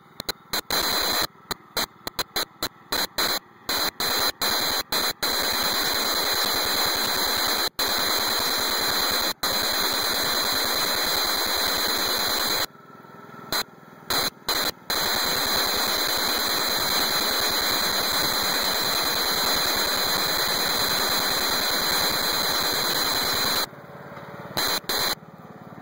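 Loud static hiss from a faulty recording, with a thin steady high tone over it. It cuts in and out abruptly many times in the first few seconds, again about halfway through, and near the end.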